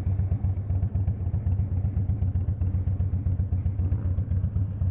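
Harley-Davidson V-twin motorcycle engine running at low speed, with an even, rapid low pulse.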